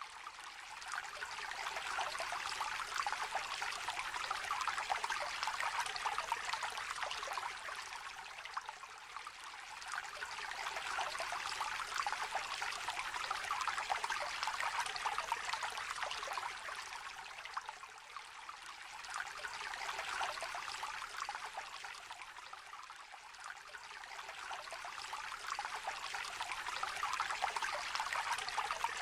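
Shallow stream trickling and babbling over stones, a continuous fine splashing that swells and eases every several seconds.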